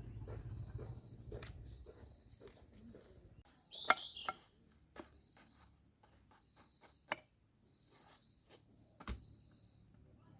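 Insects trilling steadily at a high pitch, with a few sharp clicks and knocks scattered through. A low rumble with regular pulses fades out about three and a half seconds in.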